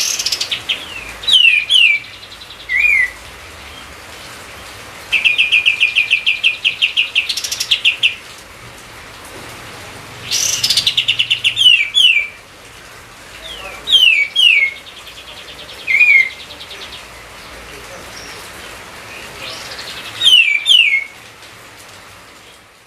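A songbird singing. Its song repeats pairs of quick falling whistles and a fast trill of clipped notes a few times, heard over a steady background hiss.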